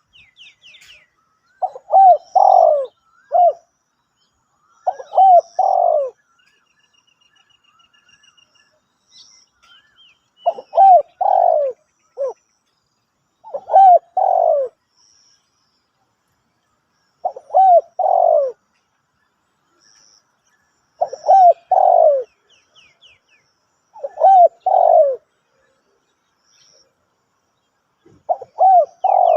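Spotted dove cooing, a phrase of two or three low coos repeated about every three to four seconds. Other small birds chirp faintly in the background.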